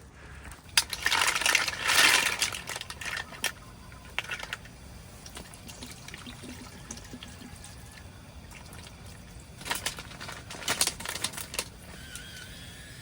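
Liquid being poured in two short spells, with small clicks and knocks between them. A faint steady high tone comes in near the end.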